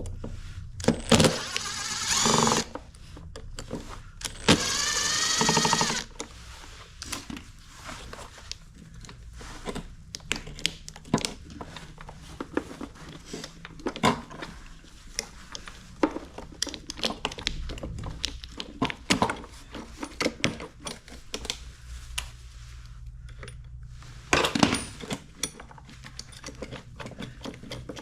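Hands working on an electric lawn mower with tools: scattered clicks, taps and clatter of metal and plastic parts, with a short whirring burst near the start and a longer one lasting about a second and a half a few seconds in.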